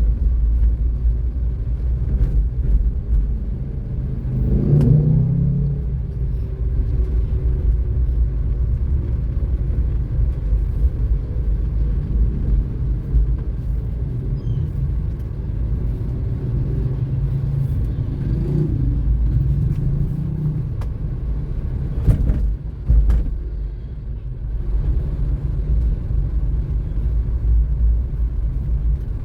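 Car driving on a city road: a steady low rumble of engine and tyres. An engine note swells about five seconds in and again briefly later, and a couple of sharp knocks come about two-thirds of the way through.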